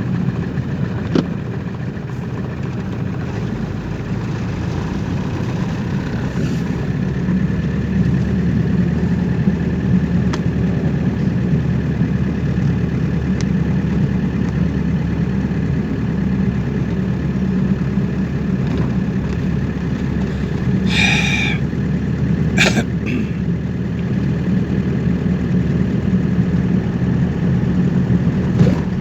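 Car engine and road noise running steadily while driving, with a brief higher-pitched sound and then a sharp click about three-quarters of the way through.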